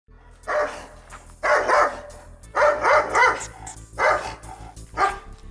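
A dog barking repeatedly, in about five loud bursts, some of them double barks.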